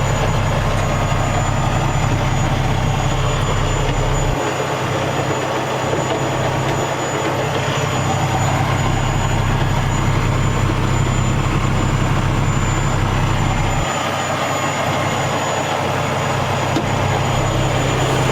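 2014 Freightliner Coronado water truck's diesel engine idling steadily with a low hum. The deepest rumble weakens for a few seconds about four seconds in and again near the end.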